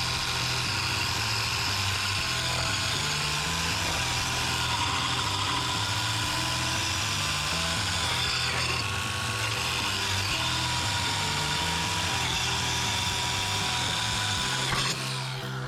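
Electric drill spinning a sanding disc attachment against the edge of a steel lawn mower blade, sharpening it. It gives a steady high whine with a grinding hiss that wavers slightly as the pressure changes, and it stops shortly before the end.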